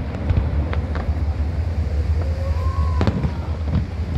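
Fireworks going off: several sharp bangs and crackles, the loudest about three seconds in, over a steady low rumble.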